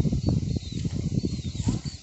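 Close rustling and crackling from movement right at the microphone, with faint high chirps repeating over it.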